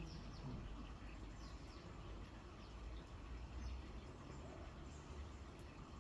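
Faint garden ambience: a few short, falling bird chirps in the first two seconds over a low steady background rumble.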